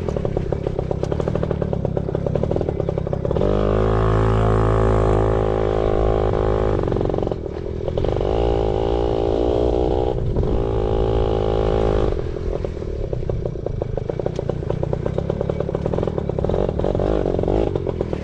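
Yamaha PW80 pit bike's small two-stroke single-cylinder engine running under way, its revs rising and falling as the throttle is opened and eased off, with a couple of brief dips midway.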